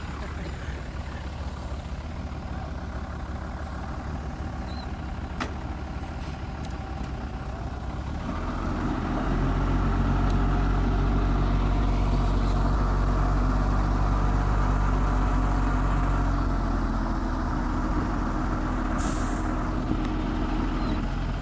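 Mitsubishi G2 bulldozer's diesel engine running, then rising to a louder, heavier note about eight seconds in and holding there for several seconds before easing back a little. A brief hiss comes near the end.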